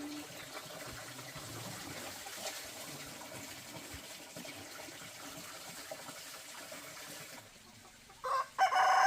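Rooster crowing near the end: a loud, long-held call. It follows several seconds of steady, faint background hiss.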